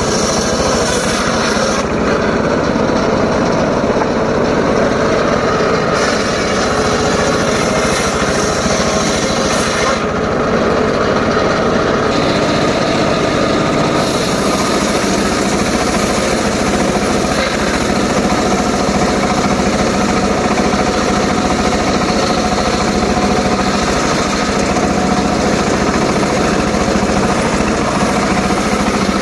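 Homemade circular saw rig running steadily while cutting short teak wood. The high hiss drops away twice for a few seconds.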